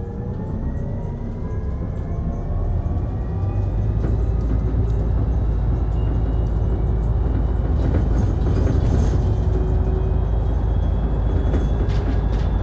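Interior running sound of a Mitsubishi Fuso Aero Star Eco Hybrid city bus accelerating. The hybrid drive's whine climbs in pitch and then levels off, over a growing low rumble, with a few brief rattles.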